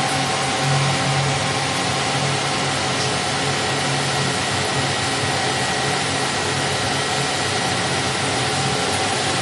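Emco Turn 220 CNC lathe running: a steady machine hum with several constant tones over an even noise.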